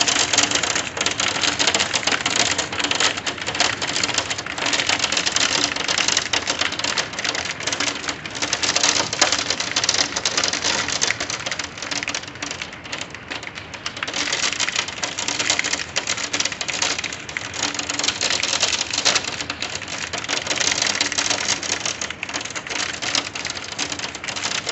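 Hail pelting down with heavy rain: a dense, continuous clatter of hailstones striking hard surfaces, loud throughout.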